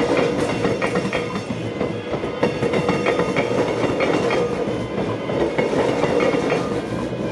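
A train passing at close range, its wheels clattering rhythmically over the rail joints above a steady rolling rumble.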